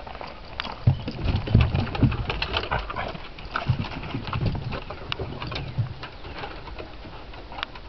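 A dog up close, snuffling and moving about, with irregular low thumps and sharp clicks.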